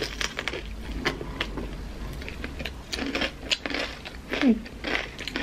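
Two people chewing crispy fried taquitos close to the microphone: irregular crunches and chewing sounds.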